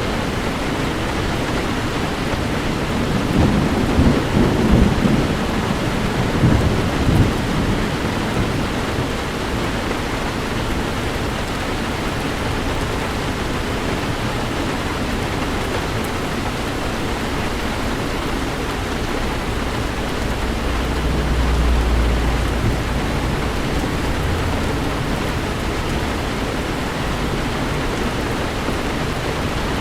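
Heavy rain falling steadily on a car in a thunderstorm. A crackling roll of thunder swells about three seconds in and fades a few seconds later, and a deeper, softer rumble rises and fades near the two-thirds mark.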